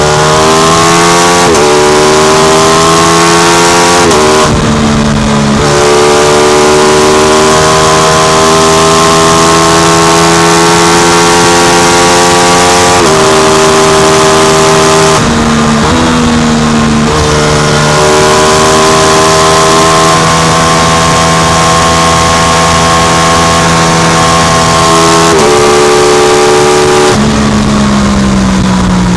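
Aprilia RS660's parallel-twin engine through an SC Project exhaust, riding under steady throttle. Its pitch climbs slowly and then steps abruptly at each of several gear changes.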